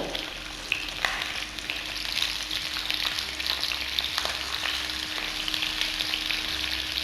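Chicken wings shallow-frying in hot oil in an open pan: a steady sizzle, with a few sharp ticks over it, just after the wings have been turned over.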